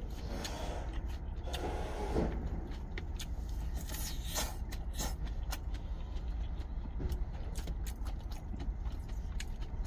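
Crunchy chewing of fresh salad greens, with scattered short clicks of a plastic fork against a plastic salad container. A steady low vehicle rumble runs underneath.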